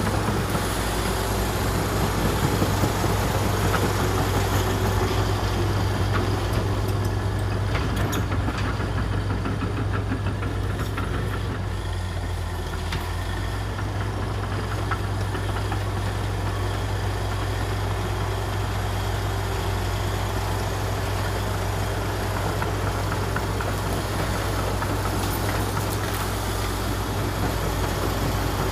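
The heavy diesel engine of a Komatsu D61EX bulldozer running steadily, with a deep constant hum and a few brief knocks.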